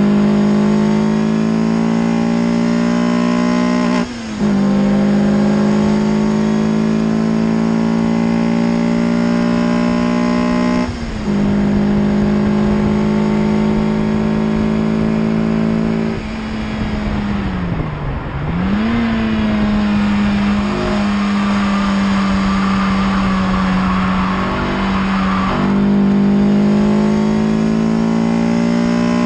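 Peugeot 306 GTi-6's 2.0-litre four-cylinder engine at high revs under hard acceleration, with quick upshifts about four and eleven seconds in. Past the middle the revs fall off under braking, a throttle blip lifts them back during a downshift, the engine runs on part throttle for a few seconds, and it goes back to full power near the end.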